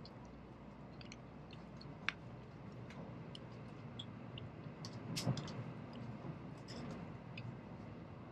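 Inside the cabin of a moving Shinkansen bullet train: a low, steady running rumble with scattered small clicks and creaks, a sharper click about two seconds in and a louder knock about five seconds in.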